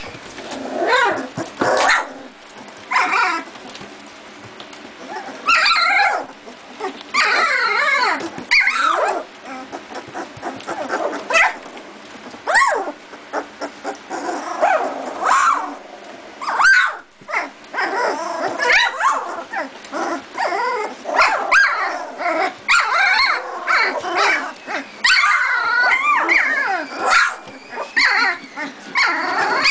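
Two-and-a-half-week-old Doberman puppies playing, letting out many short, high, wavering yips, whimpers and little barks and growls at one another, often several at once.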